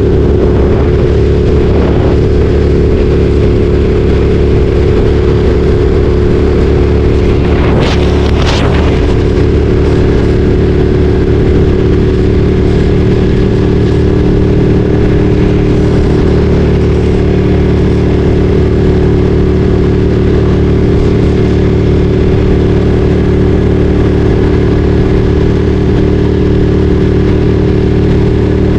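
Ducati Streetfighter 848's V-twin engine running loud at a steady, unchanging pitch, with a brief hissing rush about eight seconds in.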